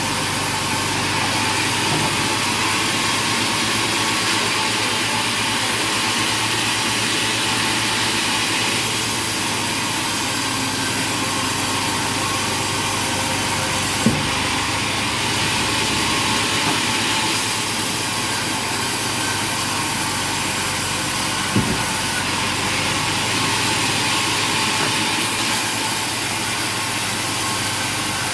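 Sawmill machinery running steadily, with two sharp knocks, one about halfway through and one about three-quarters through.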